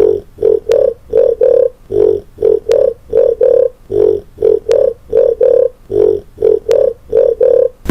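A looped tune made from mouth sounds: short pitched mouth pops in a five-note phrase that repeats about every two seconds, with a sharp click once in each phrase.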